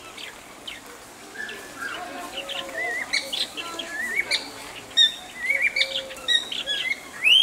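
Several small birds chirping and calling, a run of short chirps and quick up-and-down whistles, with a louder rising call near the end.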